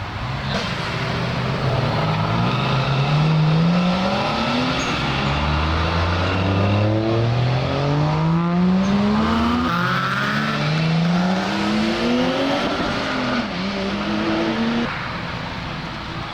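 A car engine accelerating hard up through several gears: the pitch climbs in each gear and drops back at each upshift, then holds steady before cutting off suddenly near the end.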